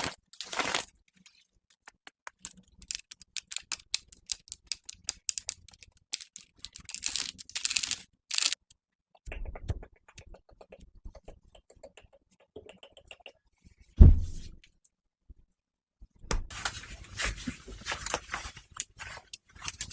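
Close-miked ASMR trigger sounds: quick light clicks and crackles with short pauses, a single low thump about 14 seconds in, then dense rubbing and scratching near the end.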